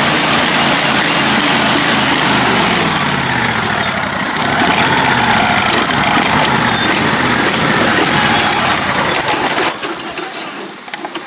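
Lifted riding-mower engine running loud and steady, then cutting out suddenly near the end. It is stalling: the owner puts the rough running down to an idle set too low.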